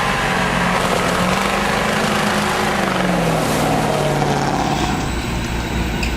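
A large engine running loudly under a wash of mechanical noise, its pitch sagging about two to three seconds in. Near the end the sound gives way to a deeper, lower rumble.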